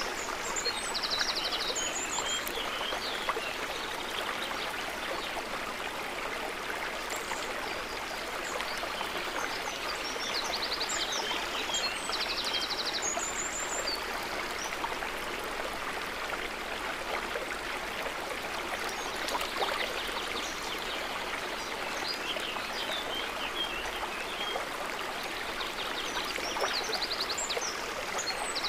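Steady trickling, babbling water. Short high chirping trills from small animals come a few times: near the start, around the middle and near the end.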